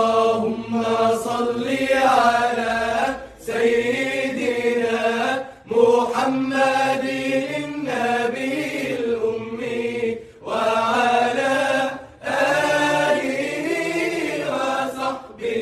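A voice chanting an Arabic salawat, a blessing on the Prophet Muhammad, in long, drawn-out melodic phrases that waver in pitch, each two to four seconds long with short breaths between them.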